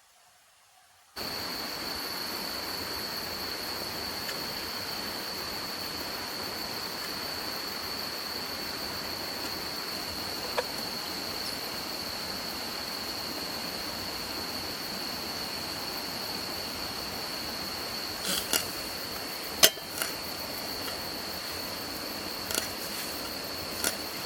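Insects trilling steadily at one high pitch over an outdoor hiss. It cuts in about a second in, and a few sharp clicks and taps come in the second half.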